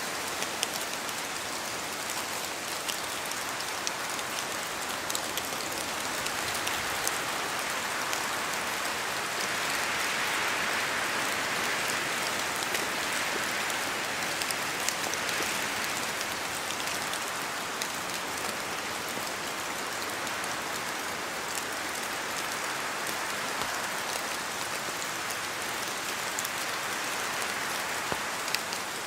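Steady rain in a forest, with many separate drops falling from the trees and tapping on leaves. The rain swells in loudness for several seconds near the middle and again near the end, in the way that gusts of wind through the canopy shake water loose.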